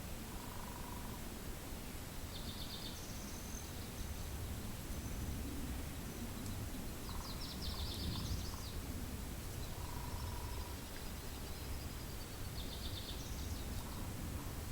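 Steady wind, with a low rumble on the microphone. Over it a bird gives three short, rapid chattering trills a few seconds apart, and a lower single note sounds twice.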